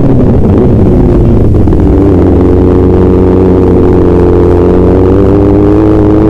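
A motor vehicle's engine running loudly, its pitch climbing slowly and steadily from about two seconds in as it gathers speed.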